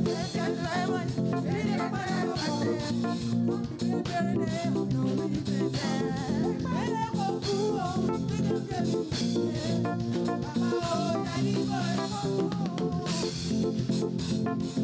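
Live church praise music: a band with guitar, bass and drums playing a steady upbeat groove while voices sing.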